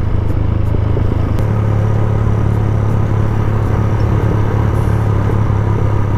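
Motorcycle engine running at a steady cruise, heard from on board the bike, under steady road and wind noise.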